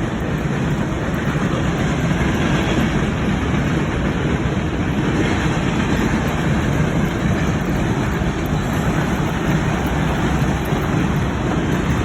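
A long train rolling past, with a steady, unbroken rumble of its cars on the rails.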